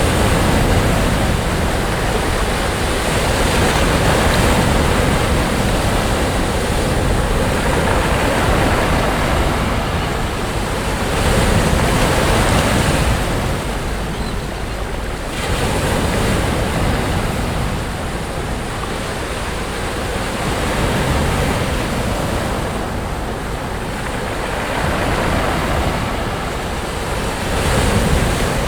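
Sea waves breaking and washing up onto a beach, the surf swelling and easing every four to six seconds.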